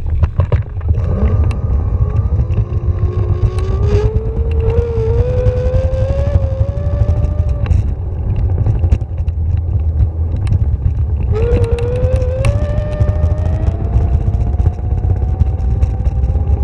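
A vehicle's motor whining and rising steadily in pitch as it accelerates, twice: once for about six seconds, then again about eleven seconds in until the end. Under it runs a loud, steady low rumble of wind and motion.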